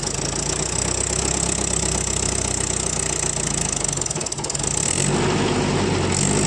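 Tractor's diesel engine running steadily, its note changing about five seconds in.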